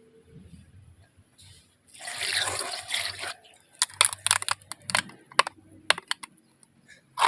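Cartoon water-wash sound effects: a burst of spraying water lasting about a second, followed by a quick string of drips and splats.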